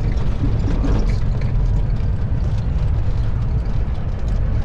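Steady low rumble of a semi truck's diesel engine and road noise, heard inside the cab while driving.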